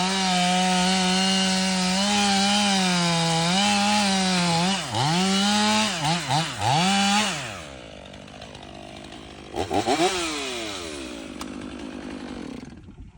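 Stihl 500i fuel-injected two-stroke chainsaw with a 32-inch bar running at full throttle, cutting wood. Around five to seven seconds in the revs dip and recover several times. It then drops to idle about seven and a half seconds in, with one short rev near ten seconds.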